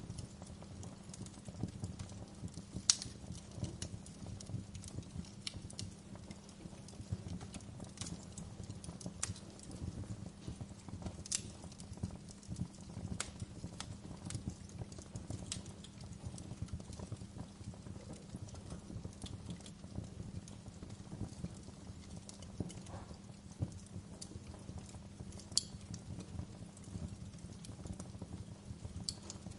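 Wood fire crackling in a fireplace: a dense low crackle with scattered sharp pops, a few of them louder.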